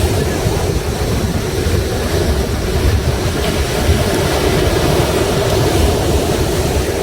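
Sea waves breaking on the shore in a continuous, steady rumble of surf.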